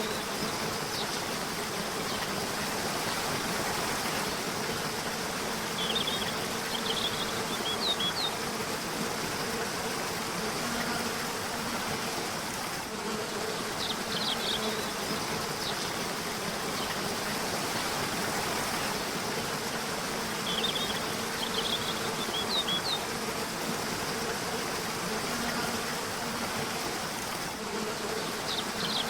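A river's water running with a steady rush, under a low wavering buzz. Short clusters of high bird chirps come in four times, roughly every seven seconds.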